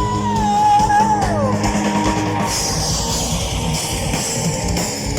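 Live heavy-metal band playing: the singer holds a long note at the end of the chorus that slides down and ends about a second and a half in. Distorted guitars and a drum kit carry on without vocals.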